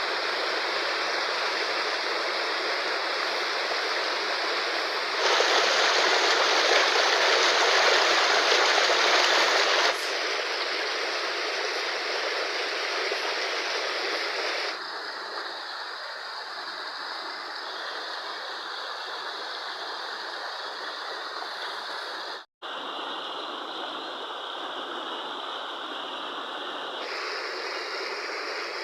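Fast-flowing river water rushing in a steady, dense wash of noise. Its loudness and tone change abruptly several times, louder for about five seconds early on and softer in the later part, with a split-second dropout about three quarters of the way through.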